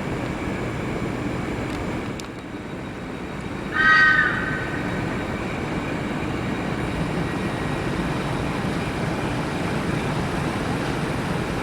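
Steady rumble of trains in a large station, with one short horn blast of a few tones sounding together about four seconds in.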